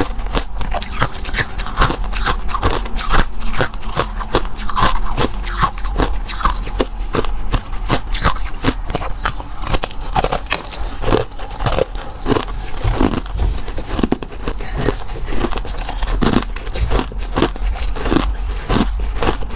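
Close-miked biting and chewing of something crunchy: a dense, continuous run of sharp, crisp crunches.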